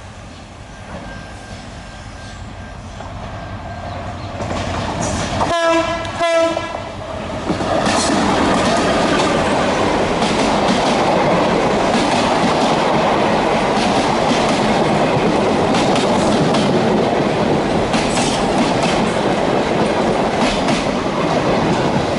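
GM GT22 diesel-electric locomotive approaching with a passenger train, growing louder, and sounding its horn about five to seven seconds in. The coaches then roll past close by with a steady loud rumble and clatter of wheels on the rails.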